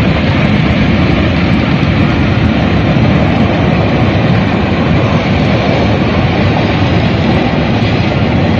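Loud, steady rush of floodwater, a dense unbroken roar heaviest in the low end.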